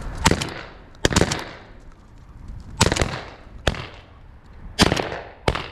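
Shotgun shots fired at flushing pigeons, about six in quick, uneven succession, two of them nearly together about a second in, each with a short echoing tail.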